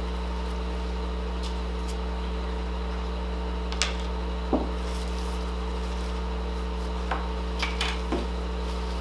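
Steady electrical hum, with a few light clicks and taps of tableware and containers at the table, about halfway through and a cluster near the end.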